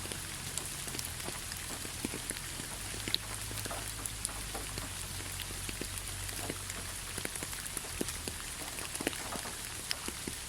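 Steady rainfall: an even hiss of rain with many separate drops ticking irregularly on nearby surfaces.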